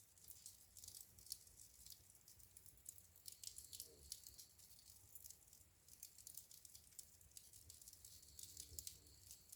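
Wood fire in a fireplace crackling faintly, with quick irregular snaps and pops.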